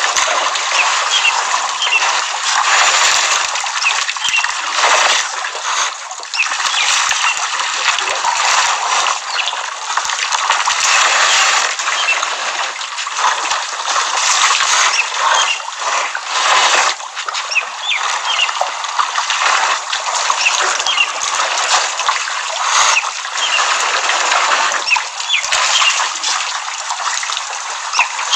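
Elephants splashing and sloshing water at a waterhole, a continuous, uneven run of splashes.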